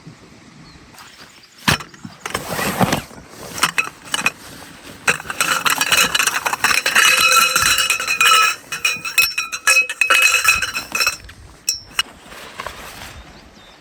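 Hard objects clinking and rattling as camp gear is handled. From about five to eleven seconds in, a dense stretch of clatter carries a steady metallic ringing.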